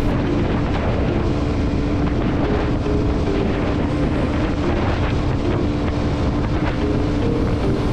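Motorcycle running steadily at road speed, its engine hum buried under heavy wind noise buffeting the microphone.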